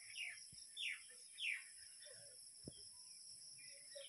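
A bird calling: three quick whistled calls, each falling in pitch, in the first second and a half, then fainter chirps, over a steady high hiss.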